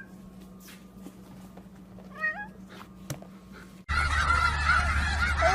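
A single short animal call that steps up in pitch about two seconds in, then, from a sudden start near four seconds, a flock of geese honking loudly.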